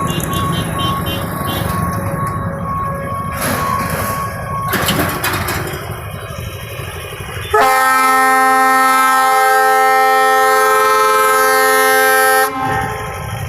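Steady din of vehicle engines passing, then a train's horn sounds one long, loud chord of about five seconds and cuts off abruptly.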